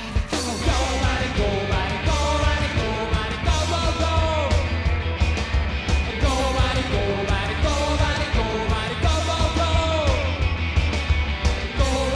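Rockabilly band playing an up-tempo song: steady, heavy bass and fast drums under sung and shouted vocals, with a voice sliding down in pitch again and again.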